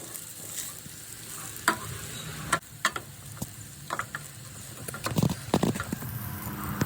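Fried rice sizzling in a hot pan as it is stirred and tossed, with a steady frying hiss and irregular sharp clicks and scrapes of the utensil against the pan, plus a few dull knocks.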